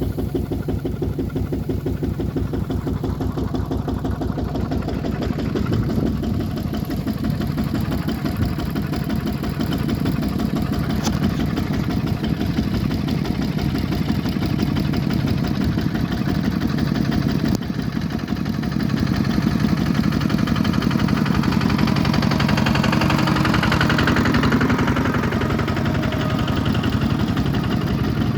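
Bulldozer's diesel engine running steadily, with a fast, even throb. It grows somewhat louder about two-thirds of the way through.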